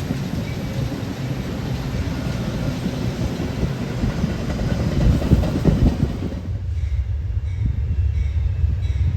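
A train passing on the tracks, with a dense rolling rush and rattle. About two-thirds of the way through, the higher noise drops away and only a low rumble is left.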